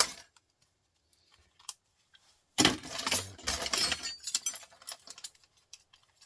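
Clatter of small metal scrap parts being handled and dropped: a dense jingling rattle about two and a half seconds in that lasts over a second, then scattered light clicks.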